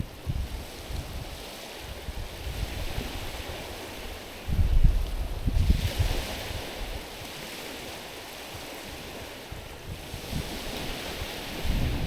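Small waves lapping and washing over a stony, pebbly shore, with two washes swelling up about halfway through and near the end. Low gusts of wind buffet the microphone, starting a little before the middle and again at the close.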